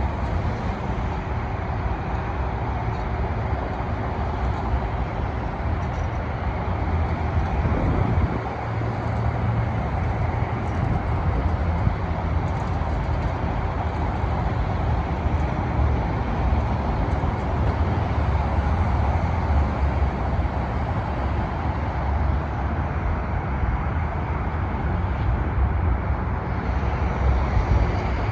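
Steady vehicle noise: a continuous low rumble with road hiss and no distinct events.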